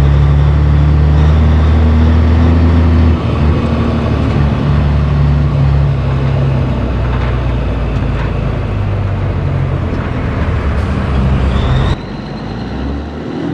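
Peterbilt 362 cabover truck's diesel engine running with a steady deep drone. Its pitch shifts about three seconds in, and it drops sharply in level near the end.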